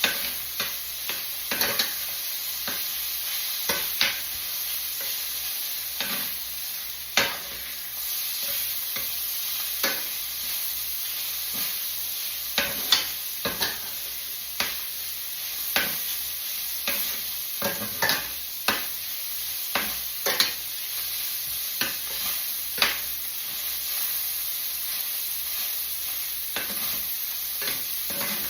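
Chopped bacon sizzling as it fries in a pan, a steady high hiss. Over it come irregular sharp clacks, about one or two a second, of a utensil stirring the bacon against the pan.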